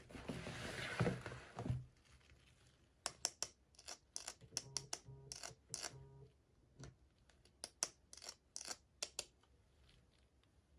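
Toy packaging being torn open and handled: a rustling tear in the first two seconds, then a run of sharp, irregular crinkles and clicks.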